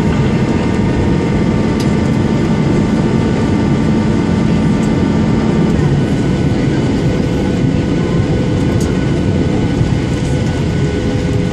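Boeing 737-800 with CFM56 engines making a steady, loud cabin rumble with a thin engine whine on top. The whine and a low hum ease about halfway through.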